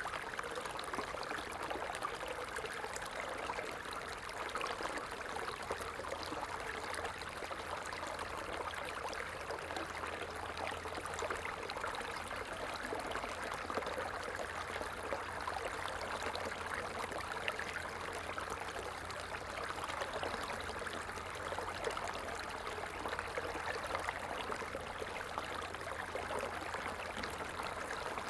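Small stream flowing and trickling steadily.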